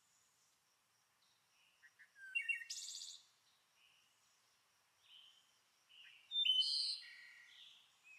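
Songbirds singing, with two louder phrases of song about two and a half and six and a half seconds in, and faint chirps between.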